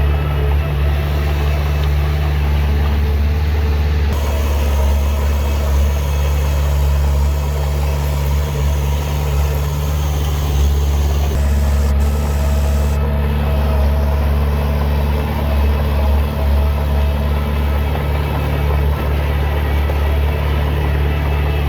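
Heavy diesel engine of earthmoving equipment running steadily at a constant speed: a deep, even drone.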